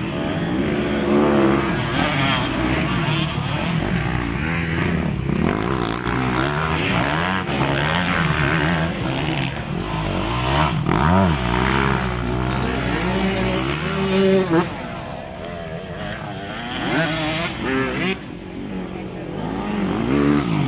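Several motocross motorcycles racing on a dirt track, their engines revving up and down in overlapping pitches as they accelerate and shift. It gets quieter after about fifteen seconds as the bikes move away.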